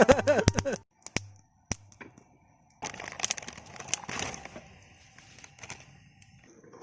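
Wood campfire crackling, with sharp separate pops in the first two seconds and a rustling, crackling stretch after that.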